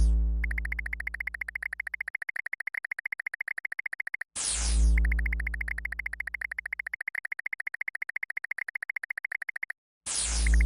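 Synthesized electronic sound effect played in a loop: a sudden burst with a falling sweep over a deep boom, then a rapid even pulsing buzz that slowly fades. The cycle repeats about every five and a half seconds, starting again a little past four seconds in and near the end.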